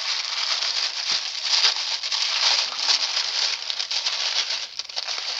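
Tissue paper crinkling and rustling steadily as a package is unwrapped by hand.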